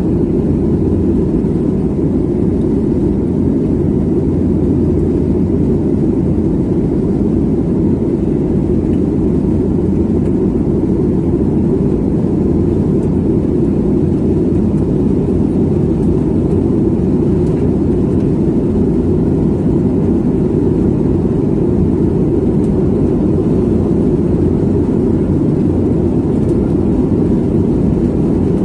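Airliner cabin noise: a steady, unchanging low rumble of the jet's engines and airflow heard from inside the passenger cabin.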